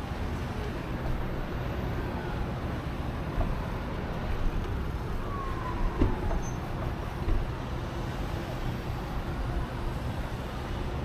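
Steady rush of wind and tyre noise from a bicycle ride, heaviest at the low end, with road traffic around. A faint falling tone comes a little past the middle.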